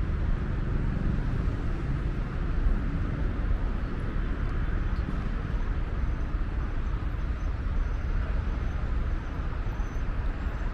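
Steady noise of fast-moving traffic on an urban motorway: a continuous rush of tyres and engines with no single vehicle standing out.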